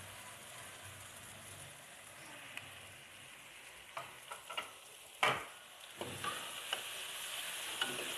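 Okra sizzling in a tomato-onion masala in a metal pot while a metal spatula stirs it, clicking and scraping against the pot. There is a sharp knock of the spatula a little past halfway, after which the stirring and sizzling get louder.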